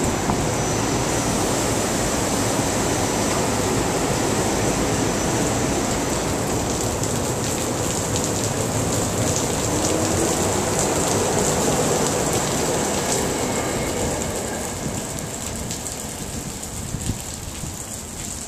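SEPTA electric commuter train running past along the platform and pulling away, in heavy rain. The train sound fades over the last few seconds, leaving the rain.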